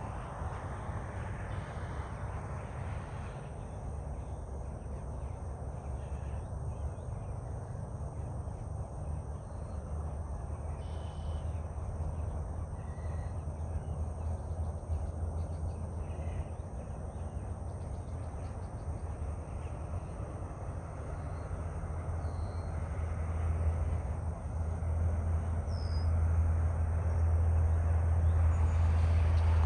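Open-air ambience: a steady low rumble that grows louder over the last few seconds, with a few faint bird chirps.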